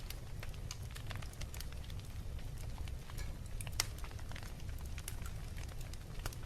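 Fireplace fire crackling over a steady low rumble, with scattered sharp pops and one louder pop a little before four seconds in.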